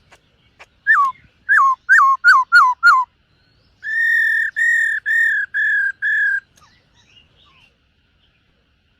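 Black-throated laughingthrush singing: a quick run of six falling whistles, then five clear, level whistled notes.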